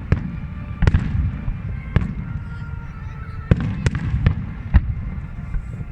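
Fireworks display: shells bursting overhead in a string of sharp bangs, about eight of them at uneven intervals, over a continuous low rumble of further explosions.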